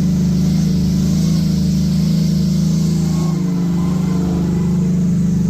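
Mega truck's engine running steadily under load while towing a dead truck, with a brief dip in the engine note about three seconds in.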